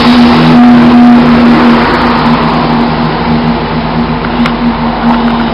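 Diesel multiple-unit train running, with a steady low engine and transmission hum over loud rumbling noise.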